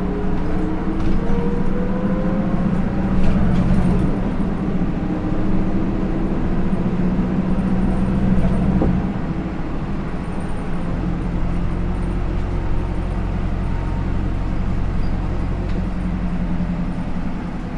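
Hino Rainbow II route bus with an Isuzu 4HK1-TCH four-cylinder turbo diesel and Aisin automatic gearbox, heard from inside the cabin while driving. A rising drivetrain whine climbs over the steady engine hum in the first half, and the sound eases off a little about ten seconds in.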